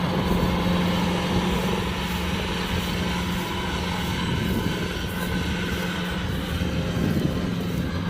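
Kubota DC-105X combine harvester's diesel engine running at a steady pitch.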